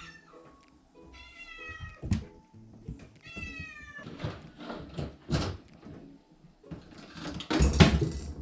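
Kitten meowing: two drawn-out meows, each falling slightly in pitch, about a second and three seconds in. Sharp knocks come between them, and a loud rustling noise near the end.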